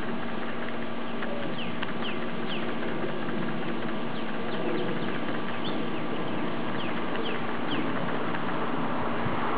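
Birds chirping in short, high notes that fall in pitch, a few at a time, over a steady hiss and low hum.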